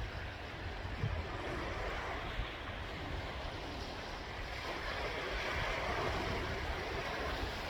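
Sea waves breaking and washing in, a steady surf wash that swells louder a little past halfway. Wind rumbles on the microphone underneath.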